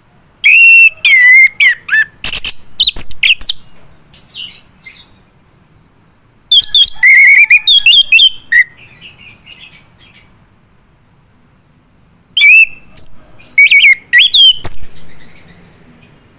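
Male orange-headed thrush singing loudly: three bursts of quick, varied whistled phrases, broken by pauses of a couple of seconds.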